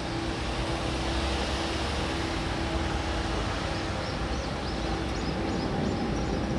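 Steady low rumble and noise with a constant hum, from a car ferry's engines running under way.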